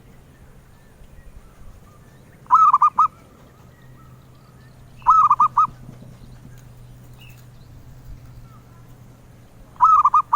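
Zebra dove (perkutut) cooing. Three short phrases of quick rolling notes come about 2.5 s in, about 5 s in, and near the end.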